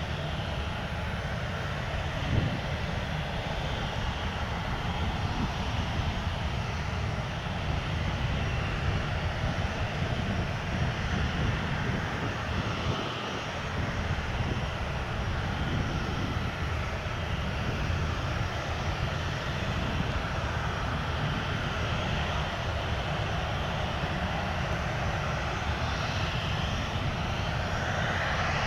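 Jet airliner engines running with a steady roar, the hiss growing a little brighter near the end.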